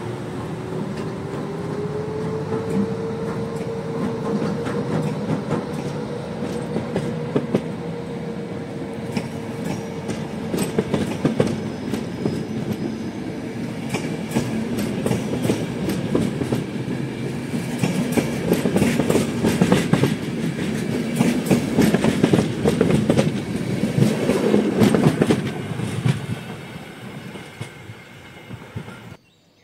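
Passenger train headed by an EP09 electric locomotive pulling out past the camera. A tone rises in pitch over the first few seconds as the locomotives pass. Then the coaches roll by with wheels clacking over rail joints, growing louder before fading and cutting off abruptly near the end.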